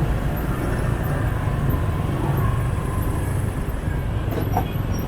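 A motorbike running steadily through city traffic, heard from the rider's seat, with a continuous low rumble and general street noise. A brief, sharper sound stands out about four seconds in.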